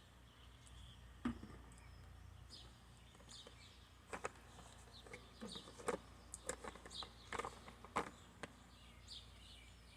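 Faint small-bird chirps, with a cluster of short, sharp calls or knocks in the second half.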